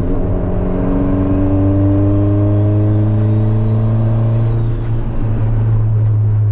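Turbocharged Honda Civic engine heard from inside the cabin, its revs climbing slowly under acceleration, then a brief dip in sound about five seconds in before it runs on steadily.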